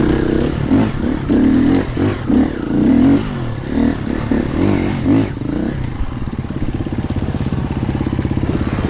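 Enduro dirt bike engine revved in short, uneven bursts of throttle for about six seconds, then settling into a steady, even low-speed run.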